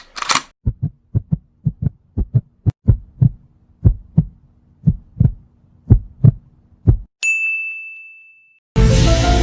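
Heartbeat sound effect: low beats in lub-dub pairs over a faint hum for about six seconds. It is followed by a single bright ding that rings and fades, and music starts near the end.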